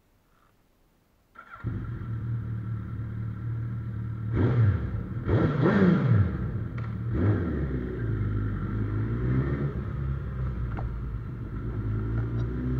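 Suzuki Hayabusa inline-four motorcycle engine starting up about a second and a half in, then blipped up and down a few times before settling to a steady idle.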